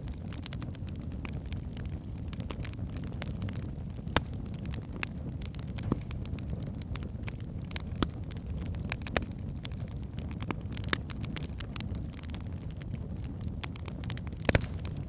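Wood fire burning in a fireplace: a steady low rumble of the flames with frequent small crackles and a few louder pops.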